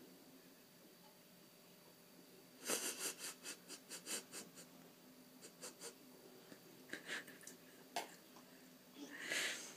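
A cat knocking at a plate: a quick run of light taps, about five a second, then a few single taps and a short breathy burst near the end.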